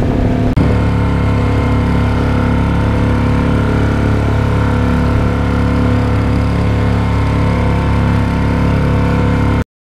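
Dinghy outboard motor running steadily at speed, with a very brief break about half a second in, then cutting off abruptly near the end.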